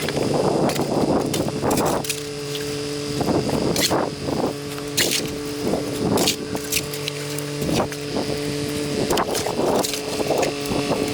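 A motor running steadily at a constant pitch, with irregular bursts of rough noise over it.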